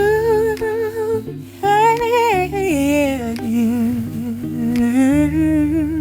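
Wordless hummed melody with vibrato, the voice stepping down in pitch partway through, over sustained low bass notes: the intro of a song.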